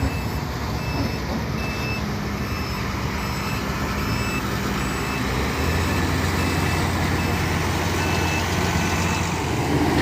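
Heavy tipper truck reversing, its reverse alarm giving evenly spaced high beeps over the diesel engine running. The engine gets louder about halfway through.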